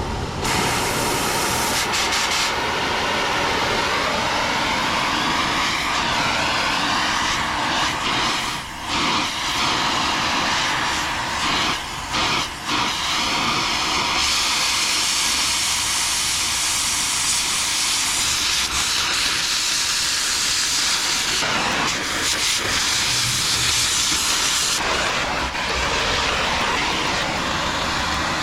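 Cutting torch hissing steadily as it cuts through the auger flighting on a combine's clean grain elevator shaft, with a few brief breaks about 9 and 12 seconds in.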